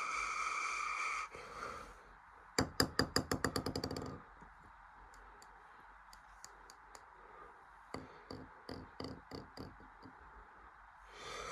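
Bridgestone Altus Newing washing machine mid-cycle. A steady hiss cuts off about a second in, followed by a quick rattling run of about fifteen clicks, then scattered fainter clicks and knocks from the machine's mechanism.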